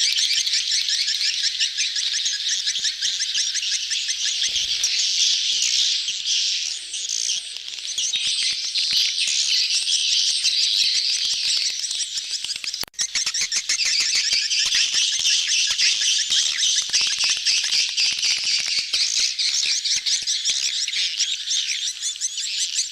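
A dense chorus of swiftlets, many rapid, high chirping calls overlapping without pause, as in a crowded swiftlet colony courting. It is a swiftlet lure call of the kind played to draw the birds into a swiftlet house. The sound briefly drops out a little past halfway.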